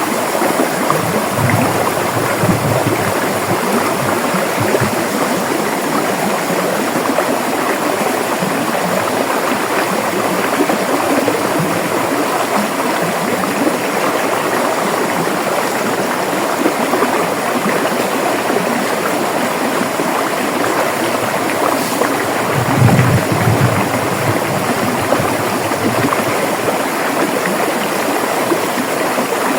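River water running over rocks in a steady rushing, babbling flow. A brief low rumble rises under it about three-quarters of the way through.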